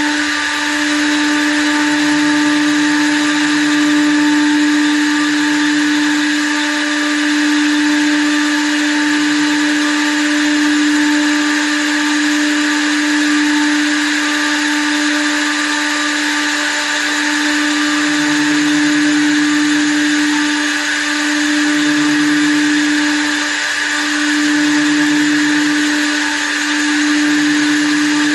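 Small-diameter wood lathe running: a steady machine whine with a hiss over it, and a lower hum that comes and goes every few seconds.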